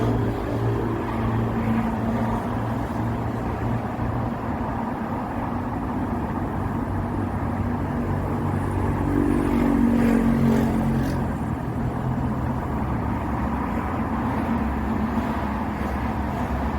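Wind blowing through bamboo: a steady rushing noise with a heavy low rumble that swells about ten seconds in.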